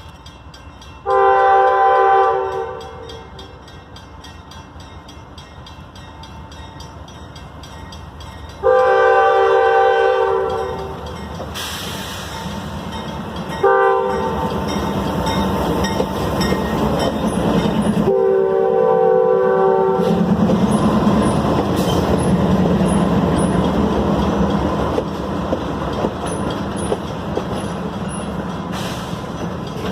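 Locomotive air horn sounding the grade-crossing pattern: two long blasts, a short one and a long one, each a chord of several notes. After the last blast the train's rumble and wheel noise build steadily as it passes.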